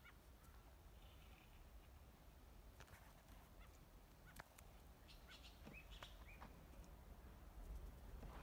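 Faint bird calls: a few short notes about a second in and again around five to six seconds in, with a faint click in between.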